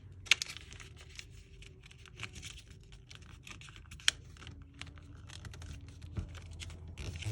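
A sheet of paper being folded and creased by hand: irregular small crinkles, taps and scrapes of fingers pressing the folds down, with two sharper clicks, about a third of a second in and about four seconds in.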